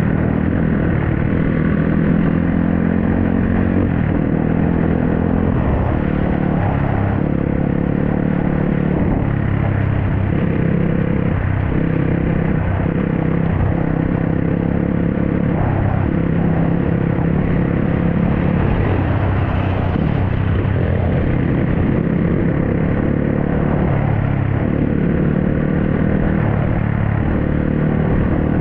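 Dirt bike engine running under way, its note rising and falling every few seconds with throttle and gear changes.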